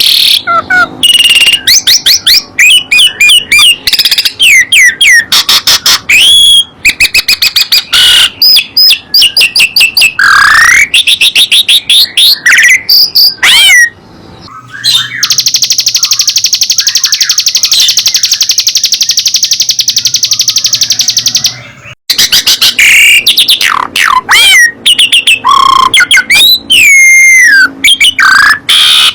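Songbirds singing loudly in rapid chirps and sweeping whistles. About halfway through comes a long, fast, high trill lasting some seven seconds, which stops suddenly before the chirping resumes.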